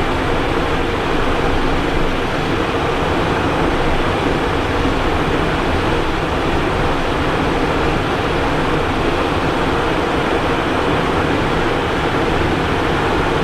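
Steady in-flight noise inside the cockpit of a Cessna Citation Encore business jet: rushing airflow over the airframe with the even hum of its turbofan engines, unchanging throughout.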